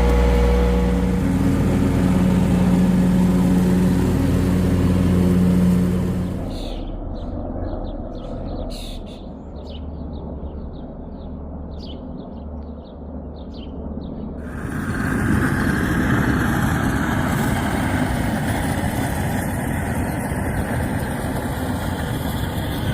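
A small tractor engine runs steadily for about six seconds, then cuts off abruptly. Quieter outdoor sound with a few short bird chirps follows, and after a few more seconds a steady hiss takes over.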